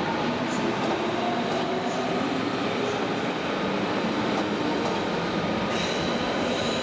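Berlin S-Bahn electric train running through the station, a steady rumble of wheels on rail with faint whining tones. A thin high-pitched whine comes in near the end.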